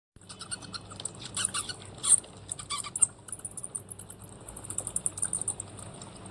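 Bats squeaking: a dense stream of rapid, high-pitched chirps and clicks, with a few louder squeaks in the first three seconds.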